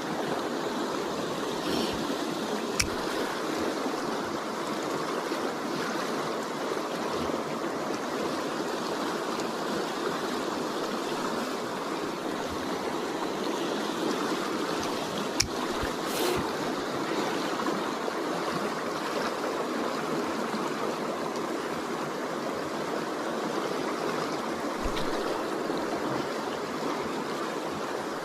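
Fast-flowing creek water rushing steadily, with a few sharp clicks along the way.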